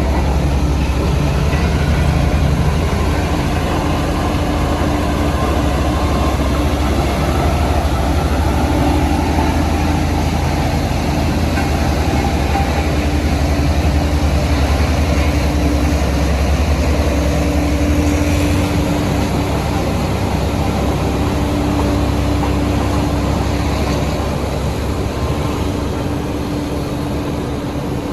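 Heavy diesel construction machinery running steadily at work, with a deep rumble and a steady hum. The deepest rumble eases about two-thirds of the way through.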